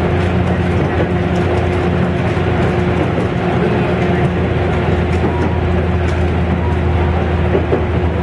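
Electric train running on the line, heard from inside the passenger car: a steady rumble of wheels on rail with a constant low hum and a steady whine from the running gear.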